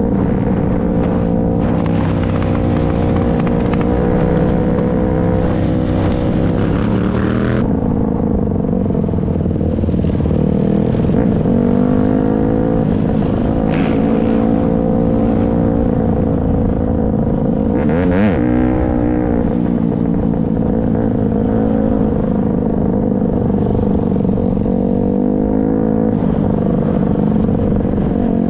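Motorcycle engine running and revving, its pitch rising and falling with the throttle, with a sharp rev or passing vehicle about eighteen seconds in.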